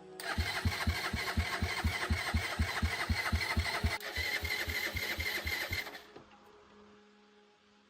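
A small motorcycle engine chugging at about four low beats a second for about six seconds, then cutting off.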